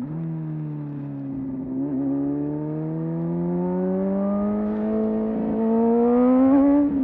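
Motorcycle engine accelerating steadily under load, its pitch rising slowly and smoothly as revs build.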